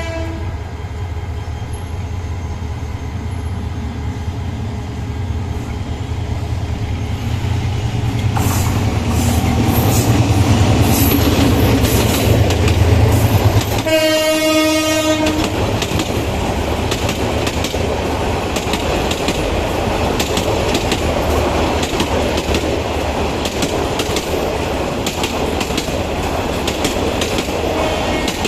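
A diesel-hauled express train comes on with its engine rumble growing steadily louder. Its horn sounds one blast of about a second and a half about halfway through. The train then runs past with a continuous rattle and its wheels clattering over the rail joints.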